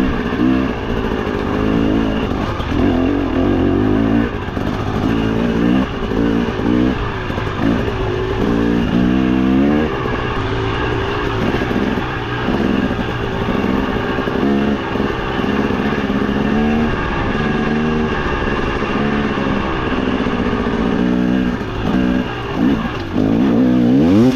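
2023 KTM 300 XC TBI's 300 cc two-stroke single-cylinder engine under way on a dirt trail, revving up and down again and again with the throttle and gear changes, with a sharp rev-up near the end.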